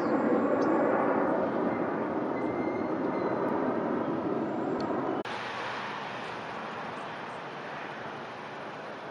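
Roar of an aircraft departing overhead, slowly fading as it moves away, with a sudden drop in level about five seconds in.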